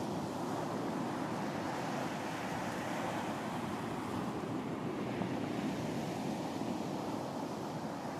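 Ocean surf washing onto a beach: a steady, continuous rush of breaking water.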